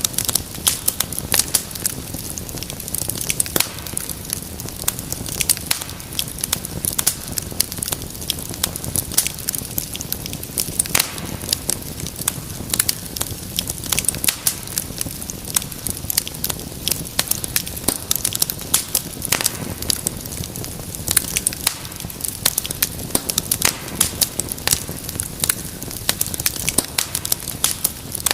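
Wood fire crackling and popping continuously, with many sharp snaps over a low steady rush of flames.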